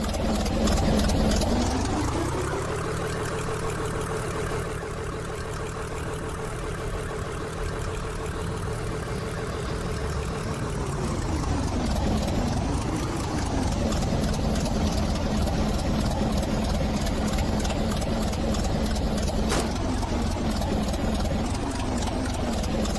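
A train running, with a steady mechanical hum. Its droning tone rises in pitch about two seconds in, holds, then drops back a little before the middle and wavers once before settling.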